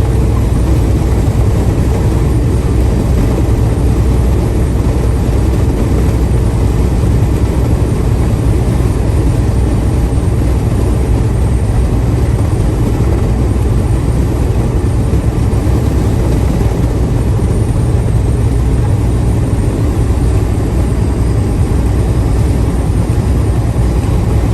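Steady engine and road noise of a vehicle driving at speed, a constant low drone.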